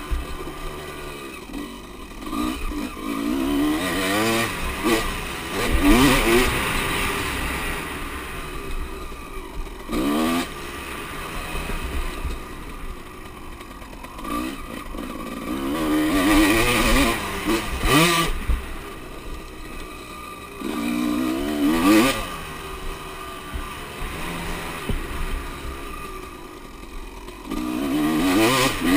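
Motocross bikes' engines revving hard and easing off over and over as riders pass and accelerate, the pitch climbing and dropping every few seconds.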